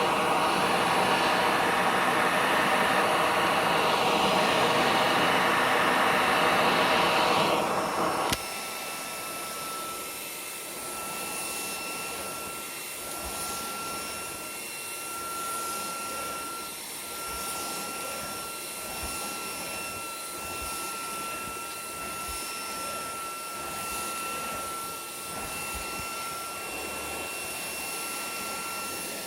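Hitachi PV-BFH900 cordless stick vacuum running loudly with a dense whir. About eight seconds in it drops suddenly to a much quieter, steady run with a thin high whine.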